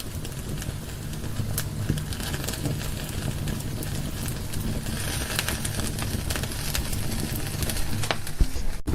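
Wood fire burning in a fireplace: a steady low rumble of flames with scattered sharp crackles and pops from the burning logs. The sound drops out for an instant just before the end.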